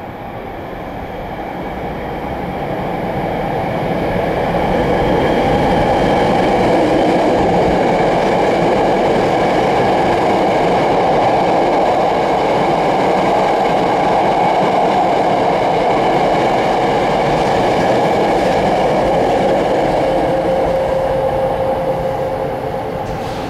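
Hankyu 9300 series electric train passing straight through a station at speed. The rumble of wheels on rail builds over the first several seconds as it comes in, holds steady with a high whine over it while the cars run past, and fades near the end as the last car leaves.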